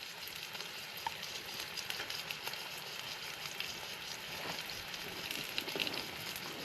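New York strip steak frying in coconut oil in a pan on an MSR camp stove: a steady sizzle dotted with small pops and crackles.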